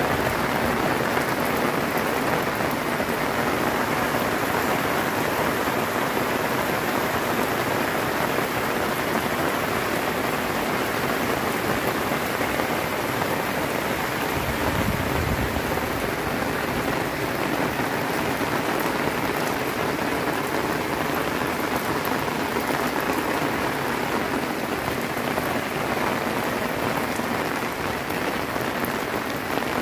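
Heavy rain falling steadily, an even hiss of downpour, with a brief low rumble about halfway through.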